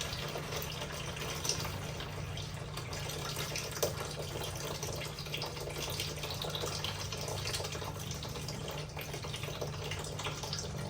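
Engine oil trickling and dripping out of a diesel engine into a drain pan, over a steady low hum, with one sharp click about four seconds in.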